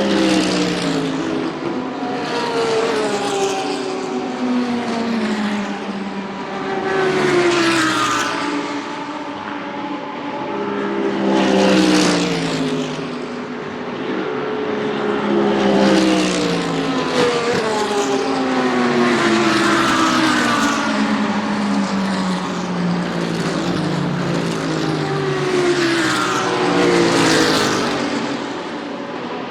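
A string of GT3 race cars going by one after another, about every four seconds, each engine note swelling and then dropping in pitch as it passes, with the next car often arriving before the last has faded.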